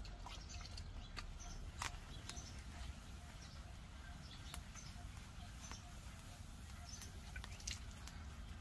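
Faint chirping of small birds over a steady low rumble, with scattered sharp clicks.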